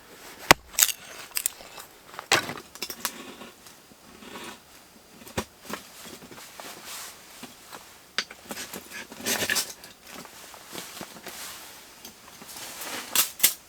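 Irregular knocks, clicks and scraping as kindling and firewood are handled to light a fire in a hot tent's wood stove.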